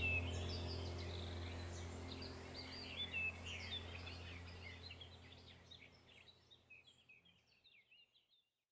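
Birds chirping over a steady low hum, both fading out gradually to silence about seven seconds in.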